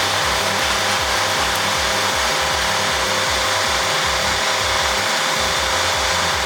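Chainsaw running at high revs and cutting steadily through wood.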